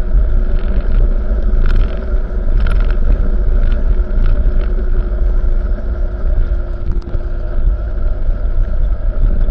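Steady motor-vehicle engine and road rumble, heavy in the low end with a constant hum. A few faint clicks come in about two to four seconds in.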